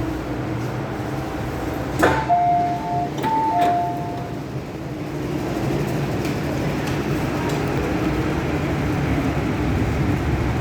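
Two-note descending electronic chime, a higher note then a lower, sounded twice about two seconds in just after a sharp knock, over the steady low rumble of an MTR M-Train electric train.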